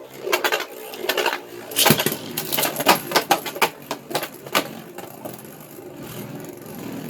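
Two spinning Beyblade Burst tops, a 3D-printed plastic Dragoon S layer against a Lost Longinus, clashing in a stadium: rapid, irregular plastic clacks as Dragoon rams Longinus over and over, over the whirr of the spinning tops. The hits are thick for about five seconds, then thin out.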